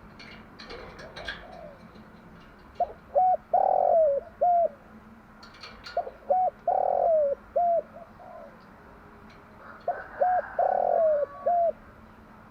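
Spotted dove cooing: three calls about three and a half seconds apart. Each call is two short coos, a longer drawn-out coo, then a final short coo.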